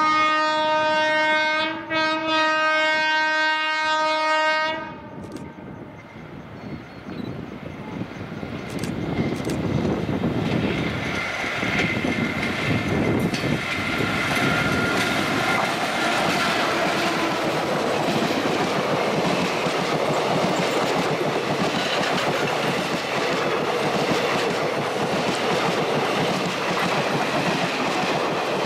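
A WAM-4 electric locomotive's horn sounds in a long blast, with a short break about two seconds in, and cuts off about five seconds in. Then the locomotive and its passenger coaches run past, the train noise building from about six seconds in and staying loud.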